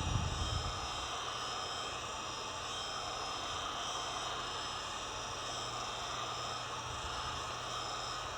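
Heat gun blowing steadily while the phone's back glass is heated to soften its adhesive, a constant whirring with a fixed whine. A brief low bump comes at the very start.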